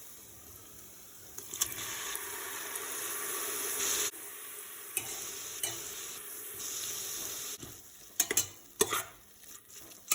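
Chopped tomatoes sizzling in hot oil and ghee in a pan while being stirred with a spoon. The sizzle swells over the first few seconds and drops suddenly about four seconds in, and a few sharp knocks of the spoon against the pan come near the end.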